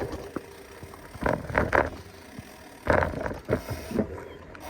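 Mountain bike clattering and rattling over rough trail ground, with irregular sharp knocks from the frame and components.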